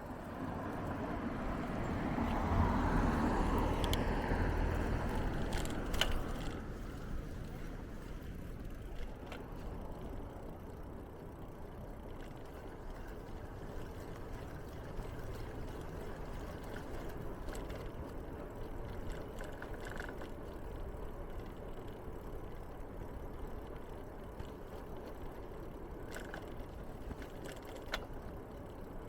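A motor vehicle passing by, growing louder to a peak about three seconds in and fading by about six seconds, its pitch sliding as it goes. After that comes a steady low traffic rumble with a few faint clicks.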